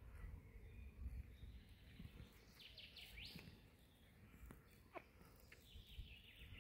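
Faint bird chirps over quiet outdoor background noise. There is a short run of chirps about three seconds in and a quick sweeping call near five seconds.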